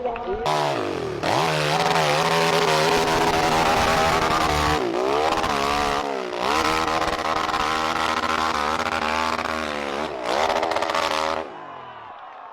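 Motorcycle engine revving hard, its pitch climbing and falling several times, dropping away briefly about six seconds in before climbing again, then fading out near the end.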